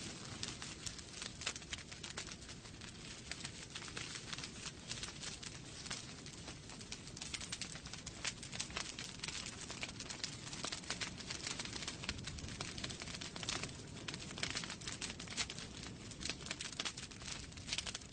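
Wood fire burning in a fireplace, with a steady hiss and dense, irregular crackling and popping of the logs throughout.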